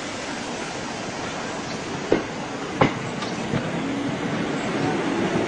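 A train running on the rails: a steady rumble and hiss, with three sharp clacks of the wheels over rail joints from about two seconds in, growing a little louder toward the end.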